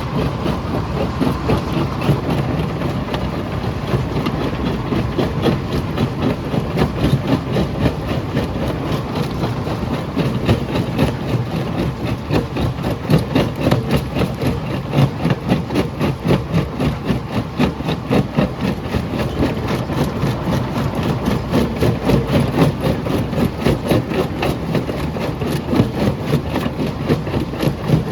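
Jaw crusher running under load: a loud, steady heavy mechanical rumble with a rapid, uneven pulsing throughout.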